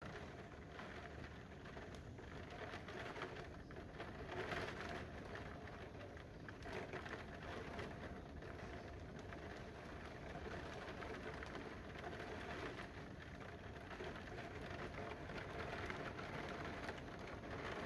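Steady rain falling in a storm, an even hiss that swells a little at times.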